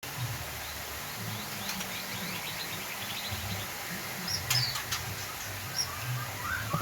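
White-rumped shama (murai batu) calling: rapid chattering trills, then a few sharp clicks and short high notes about two-thirds in, with whistled song notes starting near the end. A low hum runs underneath.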